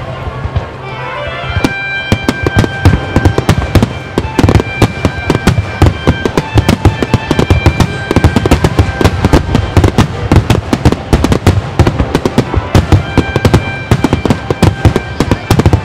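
Starmine fireworks barrage: aerial shells bursting in rapid succession, many bangs a second, getting denser about two seconds in. Music plays underneath.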